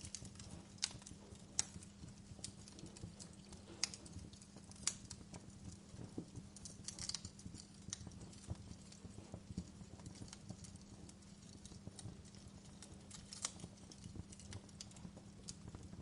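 Wood fire crackling in a fireplace: irregular sharp pops and snaps, a few much louder than the rest, over a steady low burning rumble.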